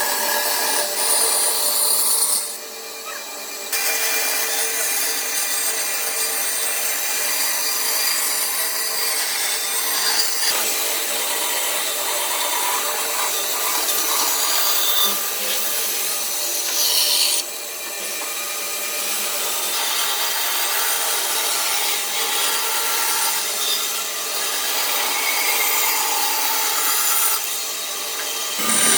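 Tools cutting and scraping pallet wood, a continuous rasping noise that changes abruptly a few times.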